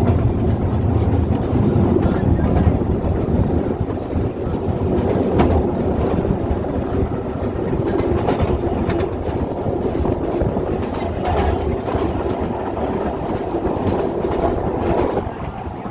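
Steam train carriage rolling along the track: a steady rumble and rattle with scattered clicks of the wheels over the rail joints, easing off near the end.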